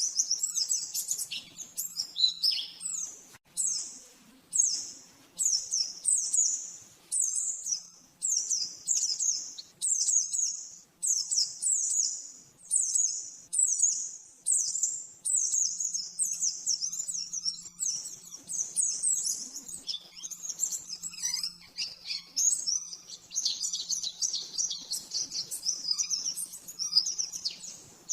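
White-eye (pleci) singing high, rapid chirping phrases at about one a second, running into a denser continuous warble from about twenty seconds in.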